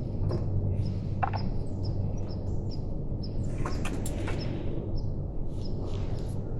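Small birds chirping in short repeated notes over a steady low hum, with a few sharp snaps and a brief rustle around four seconds in.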